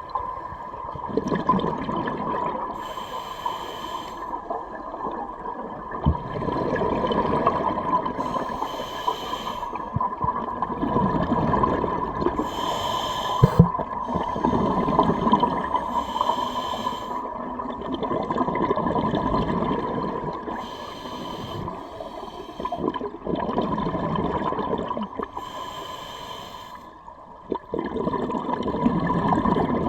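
Scuba diver breathing through a regulator underwater: short hissing inhalations alternate with longer rushing, bubbling exhalations, about one breath every five seconds, over a steady faint hum.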